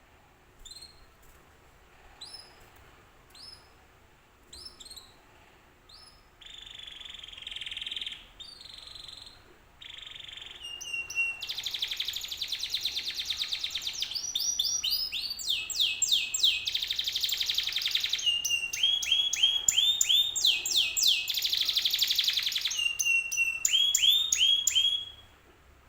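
Domestic canary singing: a few spaced single chirps, then short buzzy trills, building about eleven seconds in into a long, loud song of fast rising sweeps and rolling trills that stops abruptly near the end.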